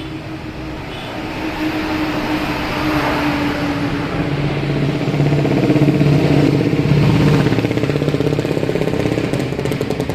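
A vehicle engine running steadily, growing louder toward the middle and easing off near the end.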